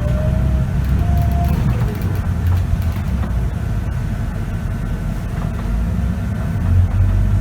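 Scania K94UB city bus's diesel engine rumbling under way, with a ZF automatic gearbox whine rising in pitch as the bus accelerates, then cutting off about a second and a half in at a gear change.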